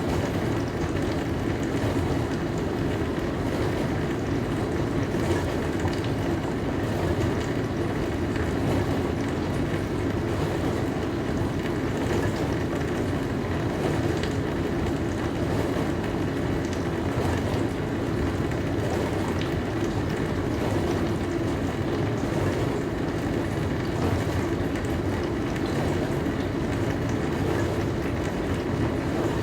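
Dishwasher running: a steady low rushing of water sprayed around inside the tub, at an even level, with a few faint clicks.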